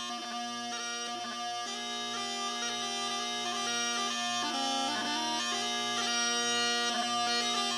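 Bagpipe music: a steady drone held under a melody of changing notes on the chanter.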